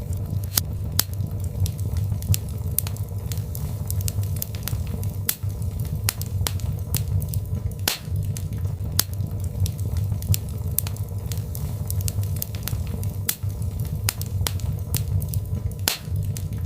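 Birch log fire crackling: frequent, irregular sharp pops and snaps over a steady low rumble of the burning fire.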